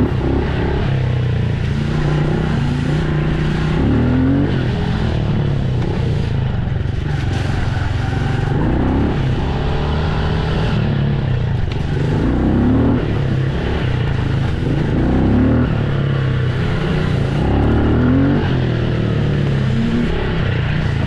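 Dirt bike engine running loudly, its pitch rising with a rev every couple of seconds and dropping back between, about eight times.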